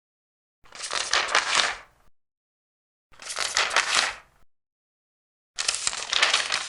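Large paper pages being turned, three turns each about a second and a half long, a crisp rustling crackle with dead silence between turns.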